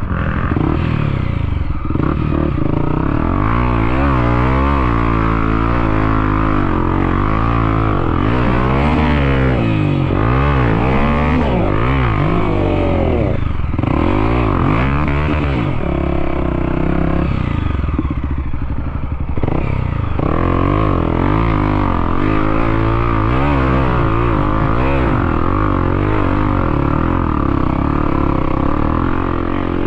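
Trail motorcycle engine revving as it is ridden, its pitch rising and falling over and over as the throttle is worked, then holding a steadier pitch for the last several seconds.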